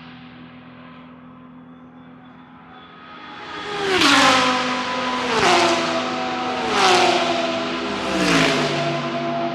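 GT3 race cars passing one after another at full throttle, after a short lull. From about four seconds in, a car goes by roughly every second and a half, each engine note dropping in pitch as it passes.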